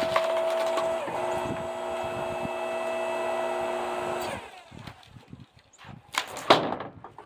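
Earthquake 5-ton electric log splitter's motor and hydraulic pump running with a steady whine that dips briefly in pitch about a second in, then cuts off about four seconds in. Two sharp knocks follow near the end.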